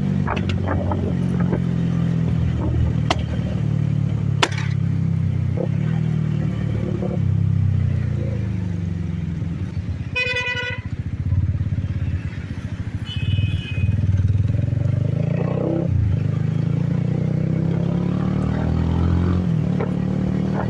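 Benelli TNT 25 single-cylinder motorcycle engine pulling hard, its pitch climbing, dropping at gear changes and climbing again, with a dip and fresh rise about three-quarters of the way through. Two sharp pops a few seconds in. A vehicle horn sounds about halfway, and briefly again soon after.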